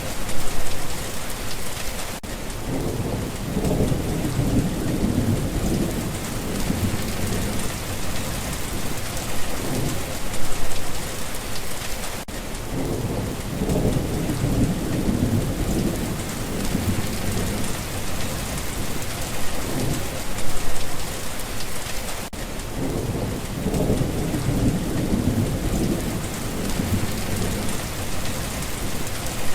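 Steady rain falling, with low rolls of thunder rumbling three times, about ten seconds apart.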